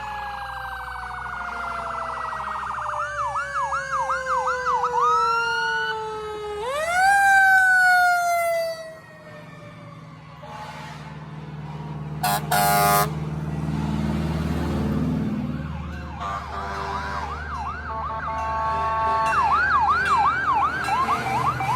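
Fire engine sirens sounding as the trucks pass: a long slowly falling wail overlaid with fast yelp sweeps, then a wail that rises and falls again. About 12 seconds in comes a short horn blast, then a low engine rumble, and near the end the fast yelp sweeps return.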